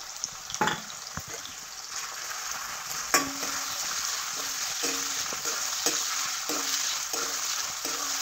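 Food frying in hot oil in a metal wok, stirred with a metal spatula. The sizzle grows louder about three seconds in, where the spatula strikes the pan with a sharp clank, and repeated spatula scrapes and knocks follow.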